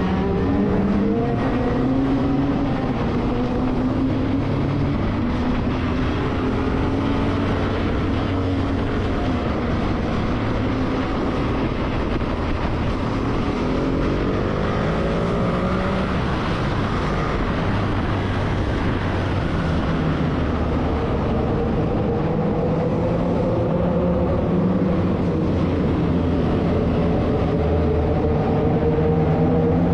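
Motorcycle engine running under way, its pitch rising and falling several times as it speeds up and eases off, over steady road and wind noise.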